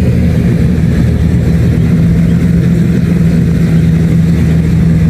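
Kubota DC-70 Plus combine harvester's diesel engine running steadily, an even low drone that holds the same pitch throughout.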